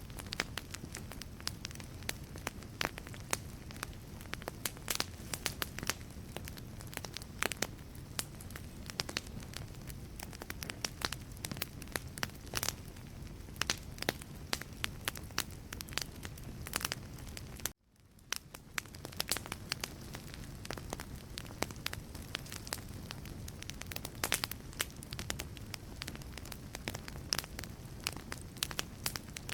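Wood fire burning in a fireplace: logs crackling and popping with many sharp, irregular snaps over a low, steady hiss of flame. About two-thirds through, the sound cuts out for a moment and then fades back in.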